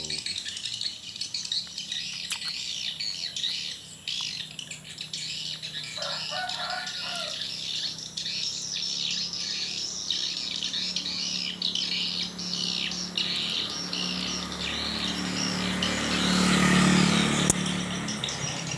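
Swiftlets twittering in a dense, continuous stream of rapid high chirps. About fifteen seconds in, a louder rushing noise with a low hum swells up and fades again.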